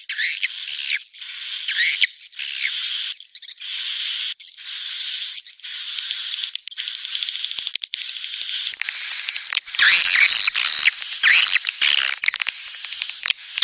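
Swiftlets twittering in a swiftlet-farm call recording of mating and breeding calls. Roughly one-second bursts of rapid chatter with short breaks between them, many rising to a held high note. From about nine seconds in the chatter turns denser and choppier.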